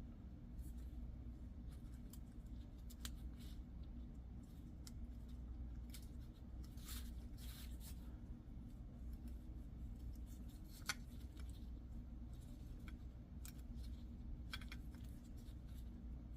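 Faint metallic clicks and short scrapes of piston rings being worked onto an engine piston by hand, scattered and irregular, with one sharper click near the end. A steady low hum runs underneath.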